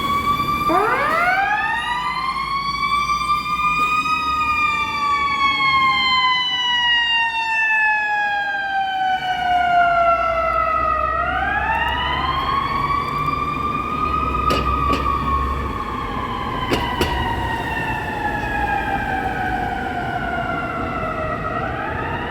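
Fire apparatus sirens wailing: each tone winds up quickly, then coasts down slowly over several seconds, in the way of a mechanical siren. Two overlap at the start, and they wind up again about halfway through and near the end. A heavy truck engine rumbles underneath, and two short sharp sounds come in the second half.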